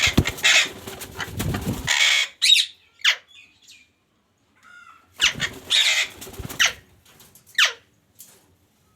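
Pet parrot flapping its wings in two bouts, each followed by short, sharp calls that fall steeply in pitch.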